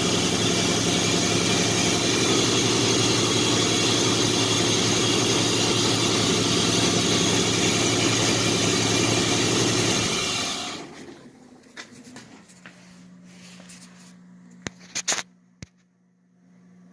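1940 Chevrolet's straight-six engine running steadily on its first start after 50 years' storage, then shut off about ten seconds in. A faint steady hum and a few clicks follow.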